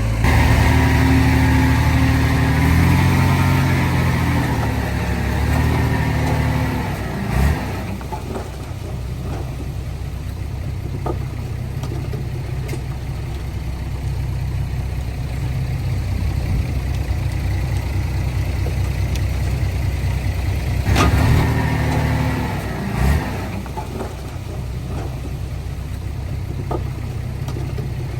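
Heavy diesel engine of earthmoving machinery running steadily. It revs up over the first several seconds and again about three-quarters of the way through, each rev followed by a sharp knock.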